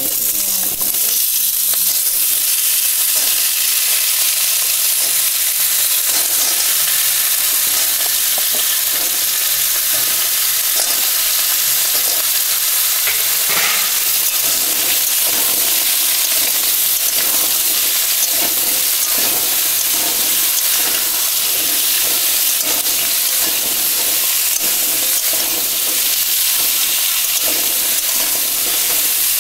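Pumpkin and potato pieces sizzling loudly in hot oil in a steel kadai, with a flat metal spatula scraping the pan and turning them in repeated strokes.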